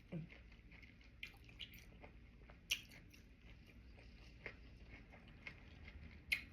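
A person chewing sushi close to the microphone: faint, wet mouth and chewing sounds with a few sharp clicks, the loudest about two and a half seconds in and again near the end.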